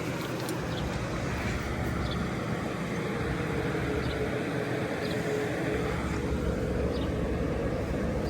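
Outdoor air-conditioner condensing units running: a steady fan and compressor rumble, with a steady hum tone coming in about three seconds in.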